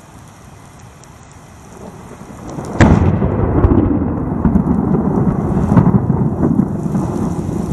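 Steady rain hiss, then about three seconds in a sharp thunderclap cracks and rolls into long, loud rumbling thunder.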